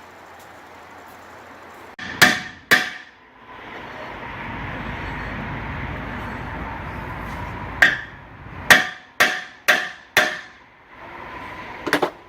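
Hammer blows on metal during wheel and hub work: two sharp ringing strikes about two seconds in, then a quick run of about five strikes later on and one more near the end. Between the strikes there is a steady whirring noise.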